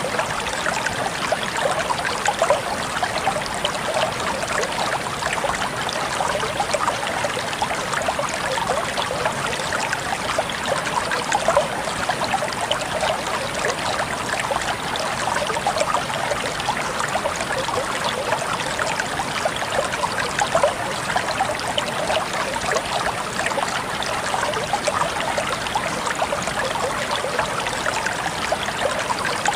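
Shallow stream of clear water burbling and trickling over rocks, a steady stream of small splashes.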